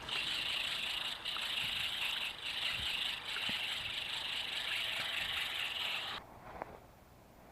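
Insects chirping in a steady, high, pulsing buzz, cutting off suddenly about six seconds in.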